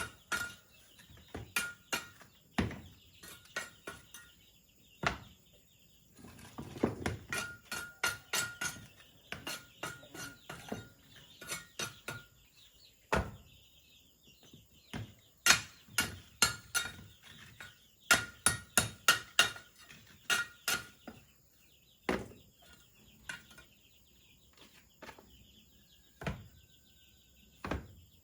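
Sharp knocks of a hand tool striking bamboo, coming in quick irregular runs with short pauses between them.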